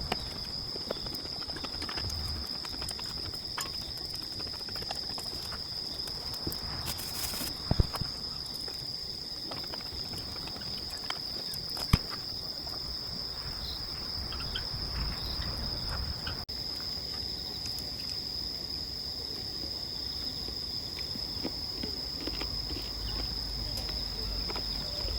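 Crickets trilling steadily in one unbroken high-pitched chorus, with two sharp clicks, one about eight seconds in and one about twelve.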